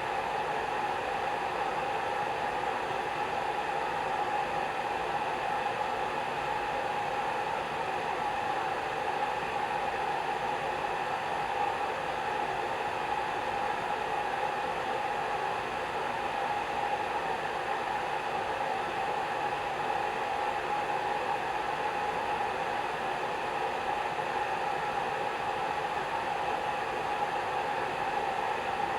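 Hair dryer running steadily: an unchanging rushing blow with a hum in it.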